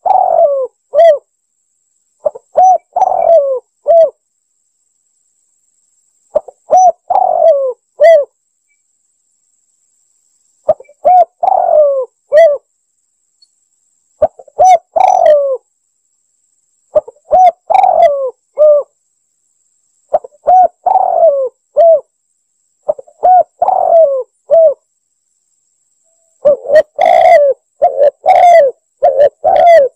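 Spotted dove (tekukur) cooing, played as a hunting lure call: short phrases of several coos repeated every three to four seconds, with silence between. In the last few seconds the phrases come closer together and overlap.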